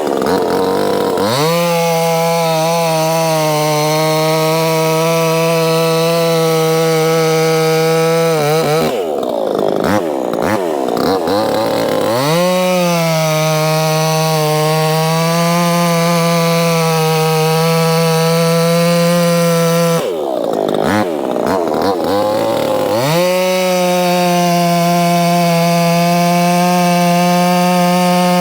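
Proyama 68cc two-stroke chainsaw held at full throttle through long cuts in firewood, at a steady pitch. Twice, about nine and twenty seconds in, the engine drops back and revs up again before the next stretch.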